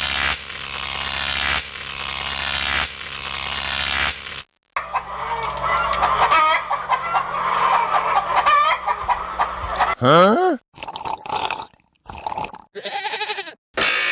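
A steady rushing noise with a low hum for about four seconds, cut off abruptly, then poultry calling: many short clucks and honks over several seconds, ending in a loud rising-and-falling squawk and a few choppy fragments.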